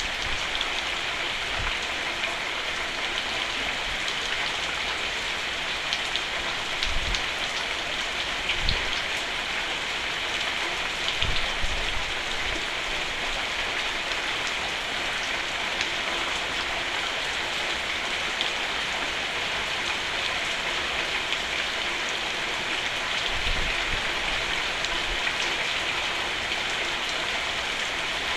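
Steady rain falling on a roof, an even hiss with scattered louder drops ticking, and a few soft low thuds now and then.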